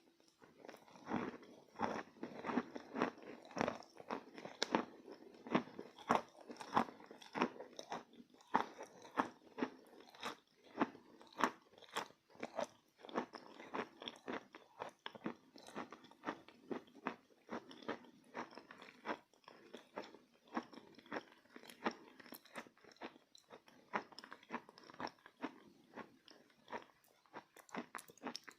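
A person biting and chewing chalk close to the microphone: a steady run of crisp, sharp crunches, about two a second.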